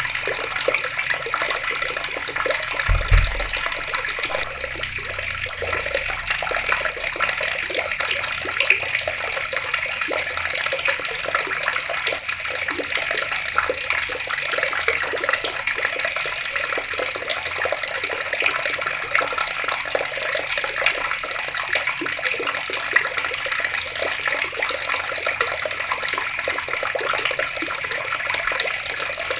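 Water pouring steadily from an outdoor tap and splashing, a constant rushing hiss. A brief low thump about three seconds in.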